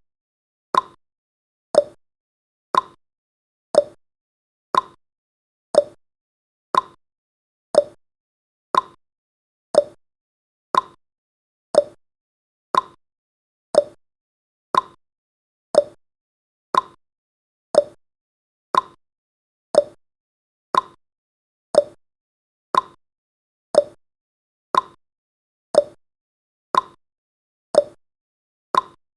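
Clock tick-tock sound effect: one sharp tick each second, alternating between a higher and a lower tick, counting off the seconds of a countdown.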